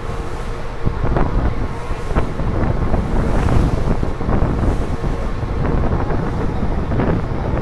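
Wind buffeting the microphone on a moving ferry, a gusty low rumble over the steady running noise of the boat.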